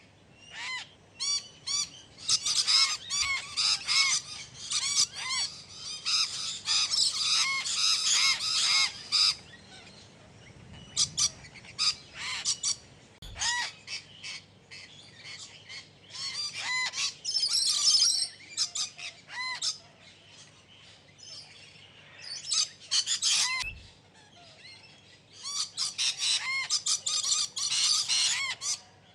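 Parrots calling: bursts of many rapid, overlapping chirps and squawks lasting a few seconds each, separated by short lulls.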